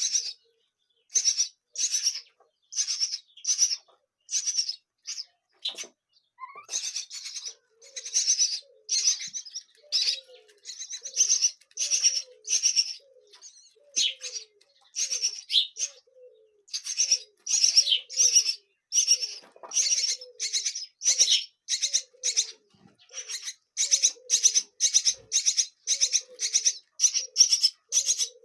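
Nestling birds chirping: a long run of short, high-pitched begging calls, one to two a second, with a faint lower note sounding under many of them.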